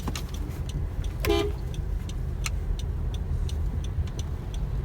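Inside a moving car: a steady low engine and road rumble, with a short car horn toot about a second in and regular light ticking, about two or three a second.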